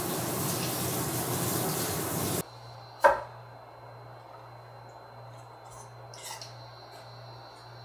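Water running from a tap, shut off abruptly about two and a half seconds in. About half a second later comes a single sharp knock, like something set down hard, then a couple of faint clinks near the end.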